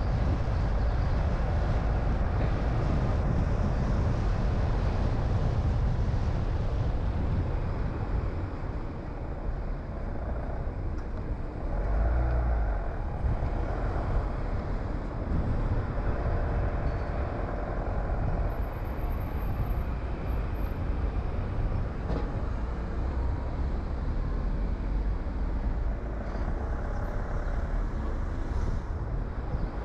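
Car driving on a road: steady engine and tyre noise, heaviest in the low end, with a brief louder low rumble about twelve seconds in.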